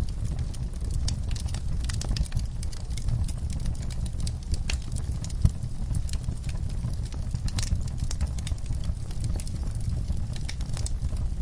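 Wood fire in a fireplace burning with a steady low rumble and irregular crackles and pops, one louder pop about five and a half seconds in.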